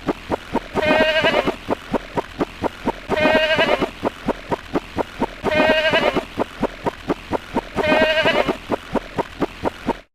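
A repeating sound effect: a short, wavering, animal-like call sounds four times, about every two and a quarter seconds. Between the calls comes a fast run of sharp clicks, roughly seven or eight a second. Just before the end it cuts off abruptly.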